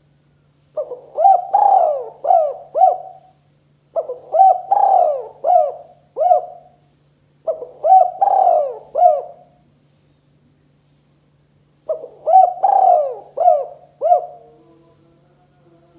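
Spotted dove (tekukur) cooing: four phrases of several notes each, with a pause between phrases.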